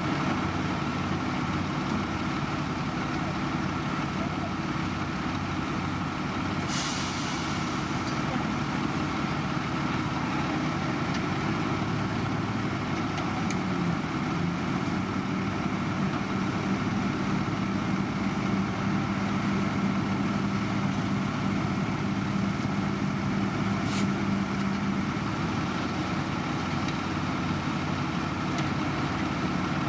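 Heavy diesel road-construction machinery running steadily, with a short air-brake hiss about seven seconds in. A steady hum joins near the middle and holds for about ten seconds.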